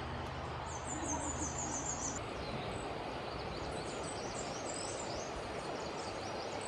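Outdoor ambience of birds chirping over a steady background hiss: a rapid run of high, short chirps about a second in, then scattered high chirps.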